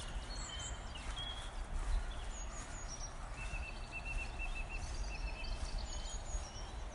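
Small birds chirping over a steady low outdoor rumble; midway, one bird gives a quick run of about six short, high chirps.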